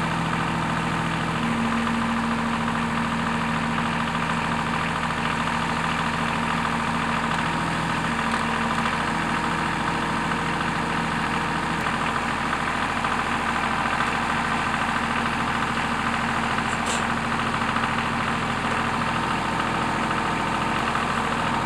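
Tractor engine idling steadily, its hum shifting slightly in pitch a few times. A short click about two-thirds of the way through.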